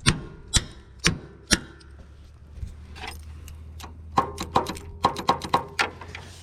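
Four sharp metal knocks, about two a second, as a ratchet strikes the stuck starter motor of a long-idle Kohler 15 hp riding-mower engine, which only clicks when the key is turned. After them comes a steady low hum, with a quick run of clicks near the end.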